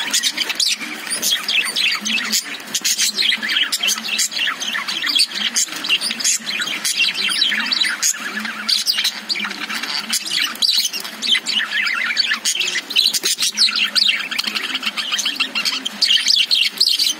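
Several caged budgerigars chirping and chattering without a break, their many short calls overlapping.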